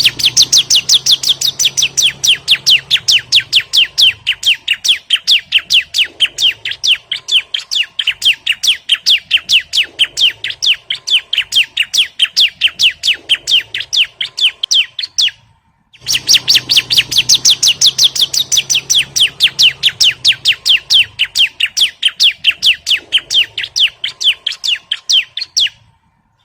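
Bar-winged prinia (ciblek) call played as a lure or tutor recording: a fast, even string of high chipping notes, about five a second. It breaks off briefly about fifteen seconds in, then starts again.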